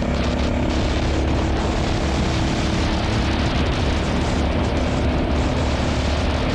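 KTM single-cylinder dual-sport motorcycle running at a steady cruise on the road, with a constant rush of wind noise over the engine.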